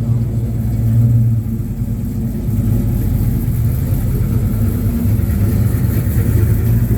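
A car engine running steadily nearby, a low, even rumble with a slight rise in pitch near the end.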